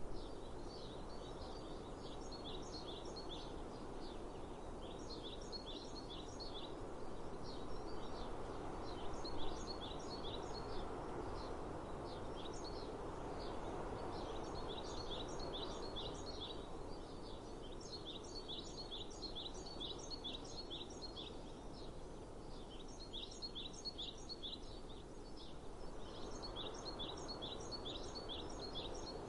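Wild songbirds singing: phrases of rapid, short high notes repeated every few seconds, over a steady hum of outdoor background noise.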